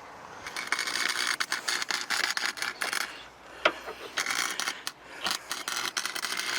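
Electric welder crackling as patch pieces are tack-welded into a rusted car floor pan, in two runs of about two and a half seconds each with a short pause between.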